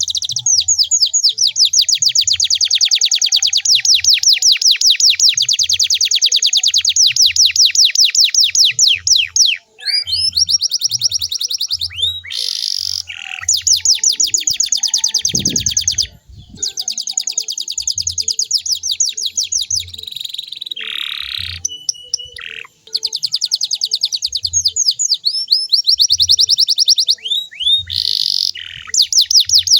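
Canary singing long, rapid high-pitched trills of evenly repeated notes, broken by a few short pauses and changes of phrase.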